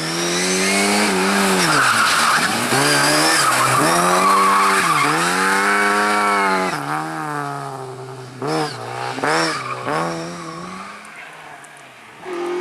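Competition car engine revving hard, the revs rising and dropping several times as it works through corners, with tyres squealing. It is loudest early and fades away after about ten seconds, with two short sharp noises around the middle of the fade.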